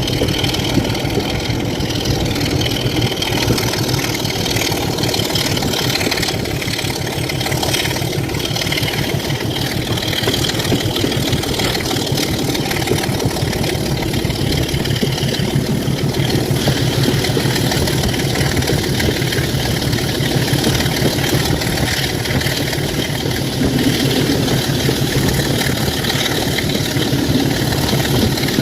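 Class 27 diesel locomotive's Sulzer six-cylinder engine idling with a steady, rapid low throb.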